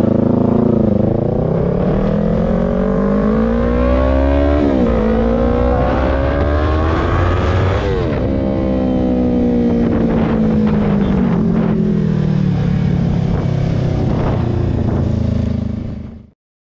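Yamaha R3's parallel-twin engine through an aftermarket M4 exhaust, climbing in pitch under acceleration with two sudden drops as it shifts up, about five and eight seconds in, then easing off with the pitch slowly falling. The sound cuts off near the end.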